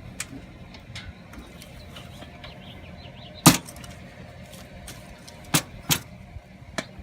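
A handful of sharp knocks and clanks over a low steady rumble. The loudest comes about three and a half seconds in, and two more follow close together about two seconds later.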